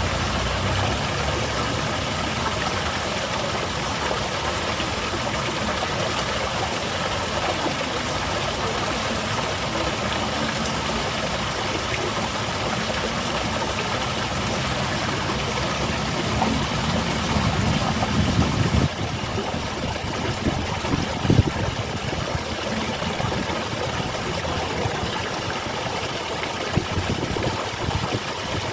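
Steady rushing and splashing of a small garden waterfall. A low rumble swells about two-thirds of the way through and then cuts off sharply, and a single sharp knock follows a couple of seconds later.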